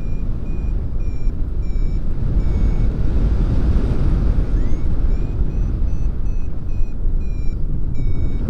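Wind rushing over the microphone in flight, with a paragliding variometer sounding short high beeps about twice a second, pausing briefly midway; the beeping is the variometer's signal that the glider is climbing in lift.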